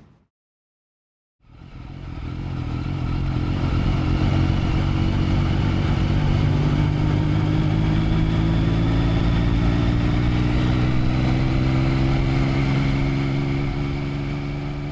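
Motorcycle engine fading in after about a second and a half of silence, then running steadily under way, its pitch rising slowly as it gathers speed.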